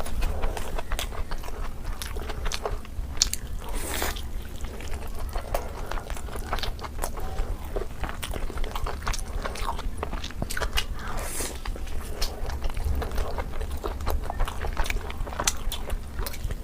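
Close-miked eating: biting and chewing food with wet mouth clicks and smacks, coming irregularly many times a second.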